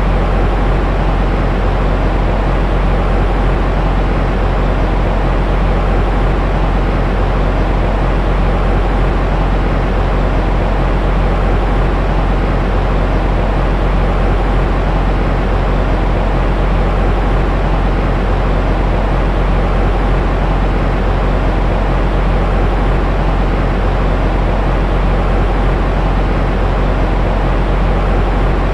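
Steady white-noise track for soothing a baby to sleep, heaviest in the low end with a deep rumble and no change in level.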